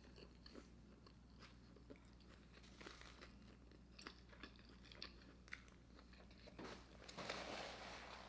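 Faint, soft chewing of a bite of McDonald's McRib sandwich, eaten with the lips closed: scattered small wet mouth clicks. A soft rushing noise comes in near the end.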